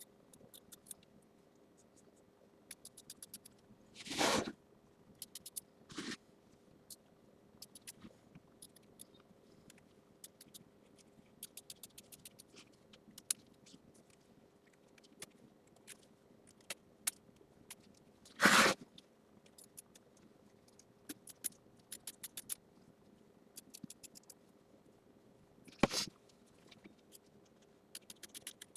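Small scissors snipping fabric in quick short clicks, trimming excess appliqué fabric close to the stitching in an embroidery hoop. Three louder brief scraping rustles come about 4, 18 and 26 seconds in, over a faint steady hum.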